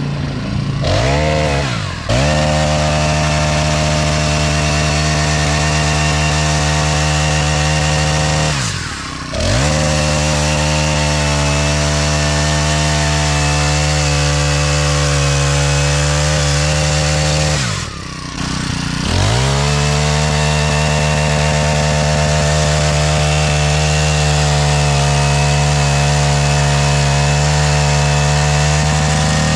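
Small 18-inch four-stroke chainsaw held at full throttle, cutting wood. The engine note holds steady, drops off briefly twice as the throttle is let go, and revs straight back up each time.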